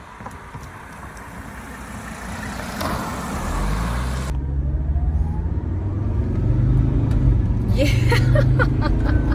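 Mercedes-Benz 300SD's five-cylinder turbo-diesel engine and the car driving, a steady low drone that grows louder. About four seconds in the sound changes abruptly to a deeper, louder drone.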